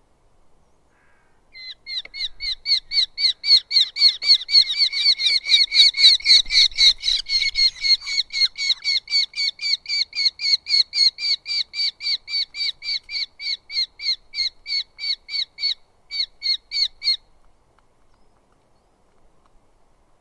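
Eurasian hobby calling a long, rapid series of sharp, evenly repeated notes, about three to four a second, for roughly fifteen seconds, with a short break just before it stops.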